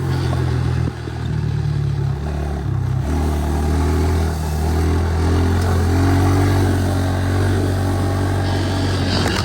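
2017 Honda 110 pit bike's small single-cylinder four-stroke engine running while ridden, its pitch stepping up and down a few times in the first three seconds, then pulling steadily.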